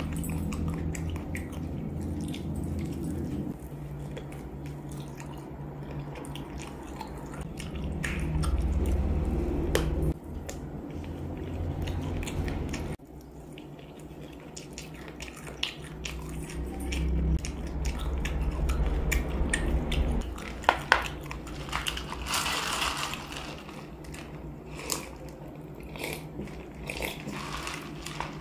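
Close-miked mouth sounds of a person biting and chewing spicy chicken feet, with scattered small clicks.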